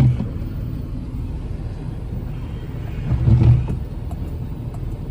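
Jeep Wrangler engine running with a low rumble as it creeps down a trail drop, swelling briefly louder about three seconds in.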